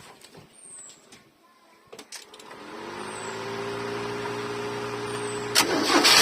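A motor starts about two and a half seconds in, spinning up briefly and then running at a steady hum. Near the end a sharp bang is followed by a loud blast of hissing air.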